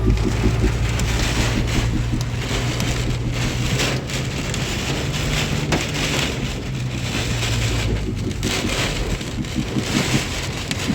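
Heavy storm rain and hail pelting a moving car, many sharp hits over a dense hiss, with a steady low rumble of wind and the car that eases about eight seconds in.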